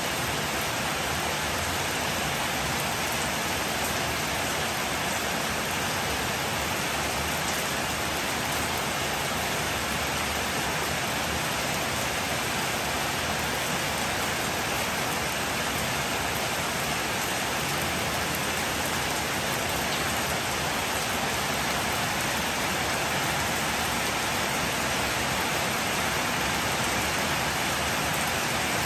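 Heavy rain falling steadily on a wet street, an even hiss that neither builds nor eases.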